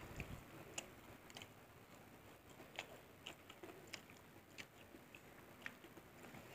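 Faint chewing of fried fish eaten by hand, with a scattering of short, sharp mouth clicks.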